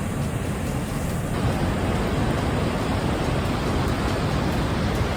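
Steady, loud roar of rushing floodwater.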